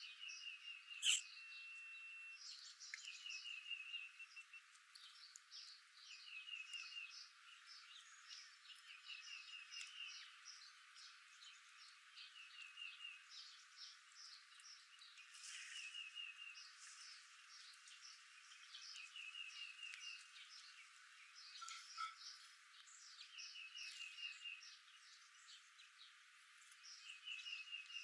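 Faint outdoor wildlife sounds: many short high chirps, with a short rapid trill repeating about every three seconds, and a sharp click about a second in.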